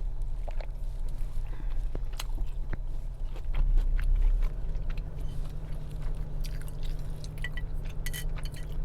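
Close-miked chewing and biting of a sushi meal, with scattered small crunches and clicks, over a steady low hum that swells briefly about halfway through.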